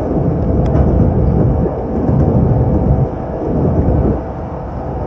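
Kintetsu electric train running along the line, heard from inside the front car: a steady, loud low rumble of wheels on rails and running gear, which eases a little about four seconds in.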